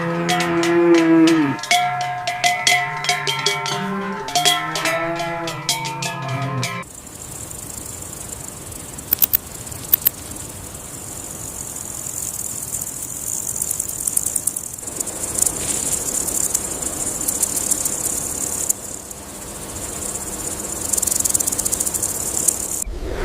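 An animal lowing: deep, drawn-out calls that slide in pitch for about the first seven seconds. These give way suddenly to a steady high hiss with faint rapid clicking.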